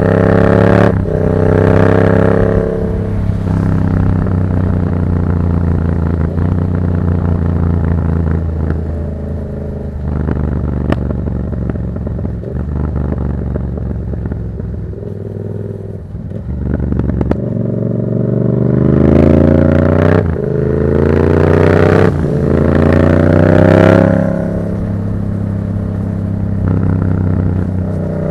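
Yamaha MT-07's parallel-twin engine through a Black Widow aftermarket exhaust, under way: it revs up hard with a gear change about a second in, then eases off and runs lower through the middle. From about 18 seconds it accelerates again through two quick upshifts and backs off near the end.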